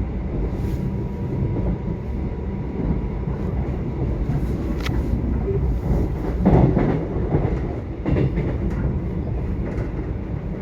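Subway train running, a steady low rumble with the clatter of wheels on the rails, growing louder about six and a half seconds in.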